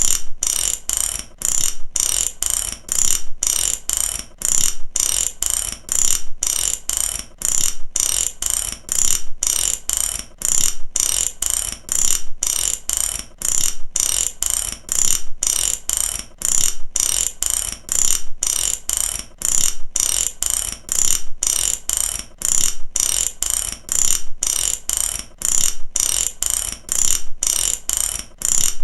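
Ratchet clicking in short runs that repeat about twice a second in an even, unbroken rhythm, the clicks sharp and high-pitched.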